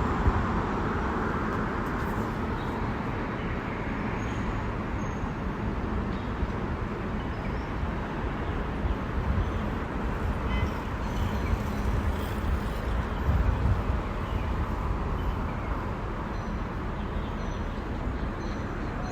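Steady outdoor road ambience heard from a moving bicycle: a continuous low rumble under an even hiss, with a few faint short high chirps now and then.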